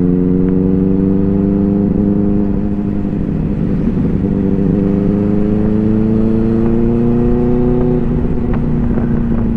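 Motorcycle engine running while riding, its note climbing slowly as the bike gradually gathers speed, easing briefly a few seconds in, then holding steady near the end, over a rush of road and wind noise.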